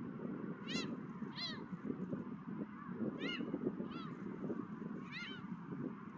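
Gulls calling, about five short mewing cries with a rise-and-fall pitch, over a steady low rush of wind.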